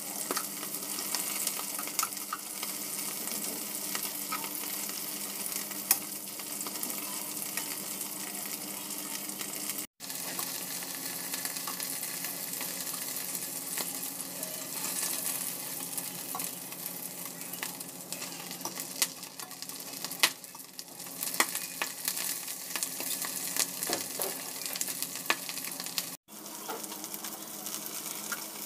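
Whole prawns sizzling as they fry in butter in a stainless steel pan, with scattered light clicks of metal tongs turning them. The sound cuts out for an instant twice.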